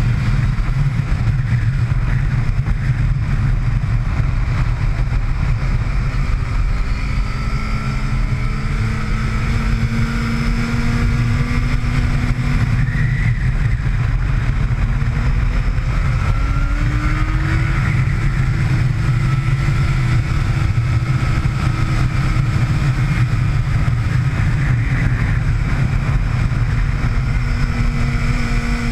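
Motorcycle engine at track speed, its revs rising and falling as it climbs and drops through the gears, under a loud, steady low rumble.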